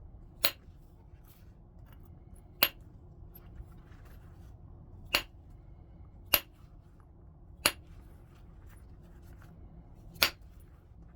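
Flintknapping: stone being worked into a point, giving six sharp, clicking snaps a second or more apart as flakes come off the edge, with a few faint ticks between them.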